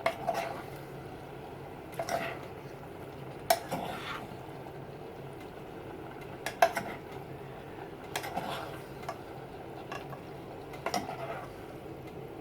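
A cooking utensil scraping and clinking against a pan every second or two while mixed vegetables are stirred, over a steady background hiss.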